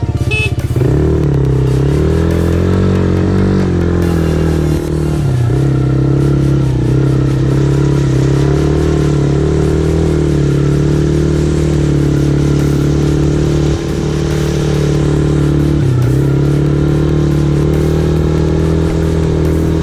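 Dirt bike engine running, its pitch rising and falling as the throttle is opened and closed, with two brief dips in loudness.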